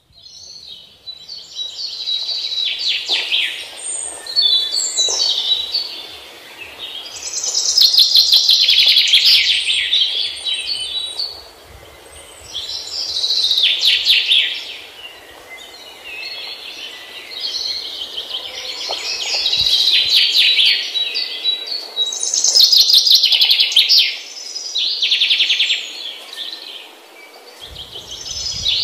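Songbirds chirping and trilling in high-pitched spells of a few seconds each, rising and falling in loudness.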